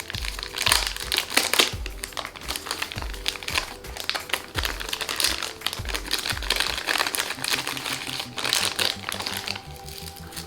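Packaging crinkling and rustling as a pair of glasses is unwrapped, in irregular bursts that die down near the end, over background music.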